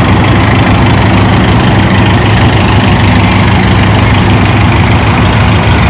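Antique farm tractor engine running steadily and loudly, a low even drone that does not rise or fall.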